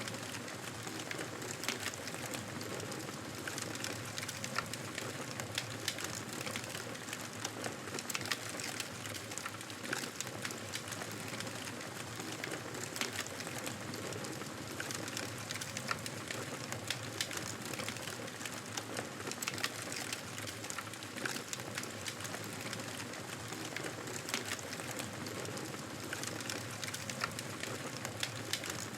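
Wood campfire burning: a steady hiss with frequent small crackles and pops.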